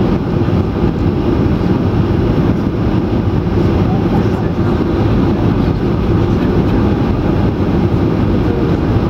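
Steady low roar inside the cabin of a Boeing 737-800 in flight, from its CFM56 jet engines and air rushing past the fuselage.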